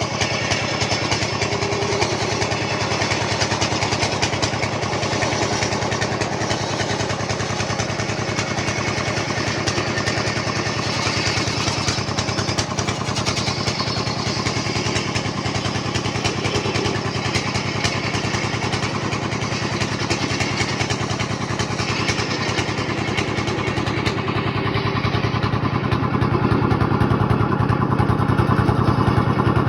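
Wood lathe running steadily, a motor hum under a dense hiss, growing somewhat louder in the last few seconds.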